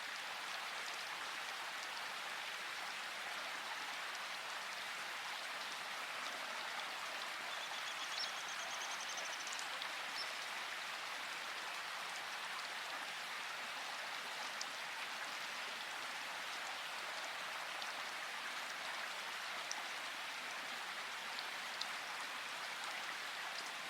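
Steady rain falling, with scattered drop ticks and no thunder. A faint high trill sounds briefly about seven to nine seconds in.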